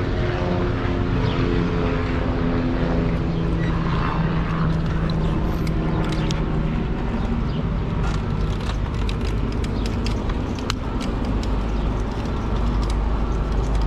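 Engine drone with a steady hum that fades out about halfway through, over constant outdoor traffic-like noise, with scattered light clicks later on.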